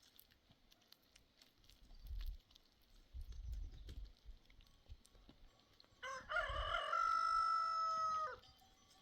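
A rooster crowing once: one long call of about two seconds, starting about six seconds in, with a held final note that cuts off.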